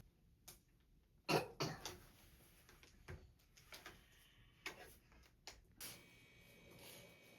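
Scattered sharp clicks and knocks of small objects being handled, in a quiet room; a cluster of louder knocks comes about a second and a half in.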